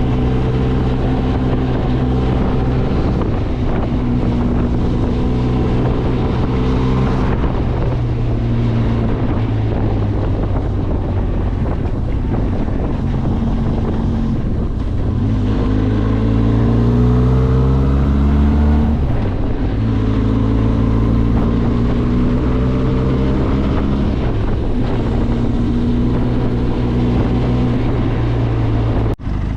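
Benelli TRK 502X parallel-twin motorcycle engine running under way, with wind on the microphone. About halfway through the engine pitch rises as it accelerates, then drops back and settles.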